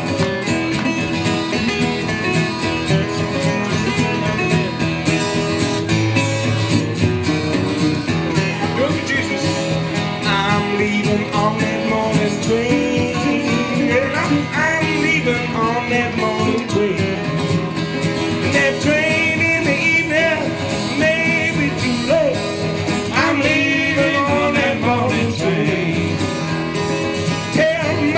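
Acoustic guitars playing a country-gospel song live, with a melody line that bends in pitch coming in over the strumming from about ten seconds in.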